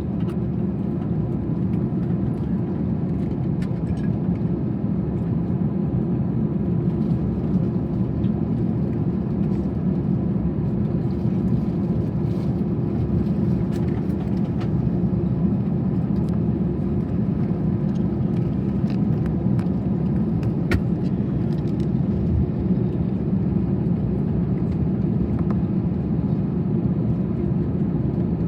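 Steady cabin noise inside an Airbus A321 on the ground before takeoff: the jet engines and air system make an even low hum with a faint steady tone, and the level stays constant throughout.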